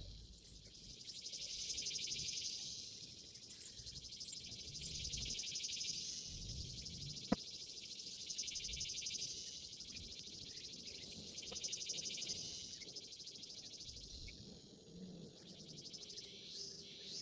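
Insects buzzing in a dense, high, pulsing drone that swells and fades in waves, with low rumbling noises and a single sharp click about seven seconds in.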